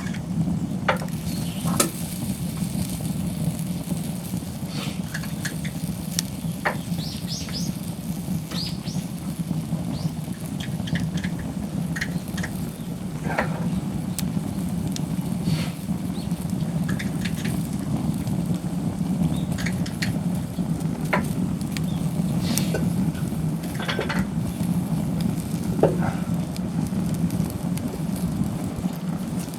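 Wood campfire crackling with scattered pops over a steady low rush, with food sizzling in a small cast-iron skillet.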